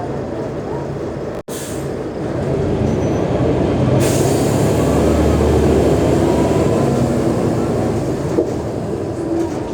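Mercedes-Benz O345G bus's diesel engine running, with a very short drop-out about one and a half seconds in. It then pulls harder from about two seconds in, a deep drone strongest in the middle, and eases slightly near the end.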